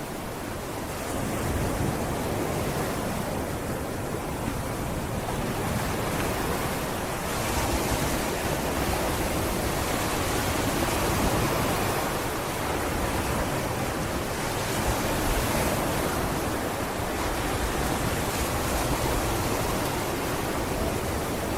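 Sea waves breaking and washing on a beach, a steady rushing surf that swells and eases gently every few seconds.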